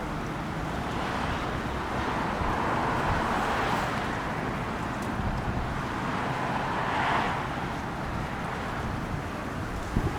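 Steady outdoor noise of road traffic and wind on the microphone, swelling up and fading twice, as if vehicles were passing.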